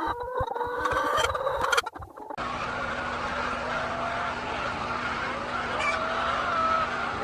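Chickens clucking and calling in short rising and falling notes, with a few clicks. About two seconds in, the sound cuts abruptly to a steady low hum with faint wavering tones.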